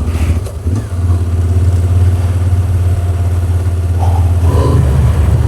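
Yamaha Ténéré 700's parallel-twin engine running at low revs, a steady low drone that dips briefly about a second in and picks up slightly in pitch past the middle.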